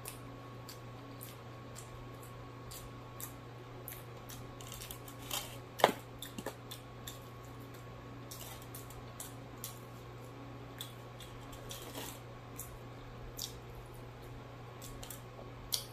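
Close-up mouth sounds of a person chewing french fries and fried fish: wet chewing and lip smacking, with scattered small clicks and one louder sharp click about six seconds in, over a steady low hum.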